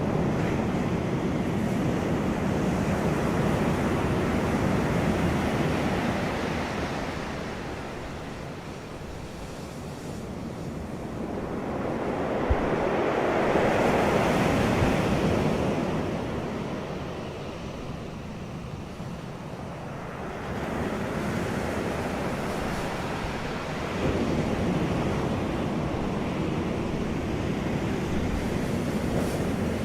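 Wind blowing across the microphone, a steady rushing noise that swells and eases in slow gusts over several seconds.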